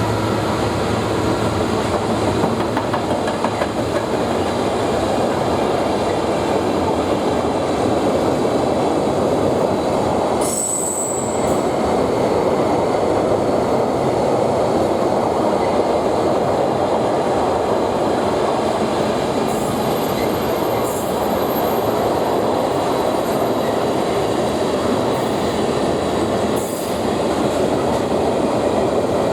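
Wagons of an intermodal container freight train rolling past: a steady rumble of steel wheels on rail with a few knocks. There is a brief high wheel squeal about ten seconds in, and a thin high whine from about twenty to twenty-four seconds.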